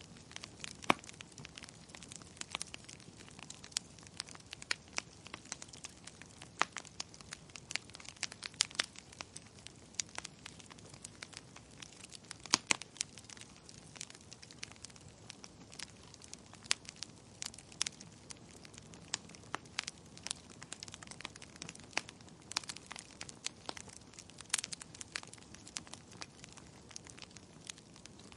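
Wood fire crackling in a fireplace, with irregular sharp pops and snaps over a soft hiss; a few louder pops stand out.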